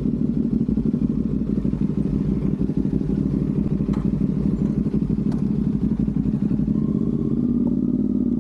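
CFmoto 450SS parallel-twin motorcycle engine running steadily while riding, its pitch rising a little near the end.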